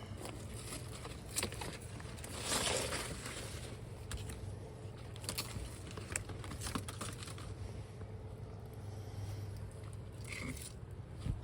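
Loose stones and cinder blocks being handled and taken apart: scattered clicks and knocks, with a brief scraping swell about two and a half seconds in, over a steady low hum.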